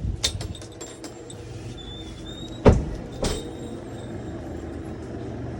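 A door thumping shut, one loud thump about two and a half seconds in and a lighter knock just after, with a few small clicks before it and a faint squeak, over a steady low hum.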